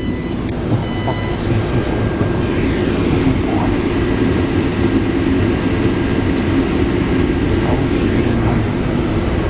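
Taipei Metro C381 electric train, a steady low rumble and hum heard from aboard, with a short electronic tone about a second in.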